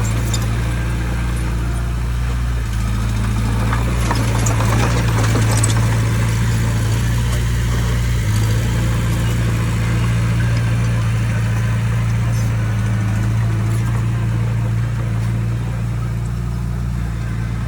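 Diesel engine of heavy earthmoving machinery running steadily at a constant speed, with a spell of crackling noise about four to six seconds in.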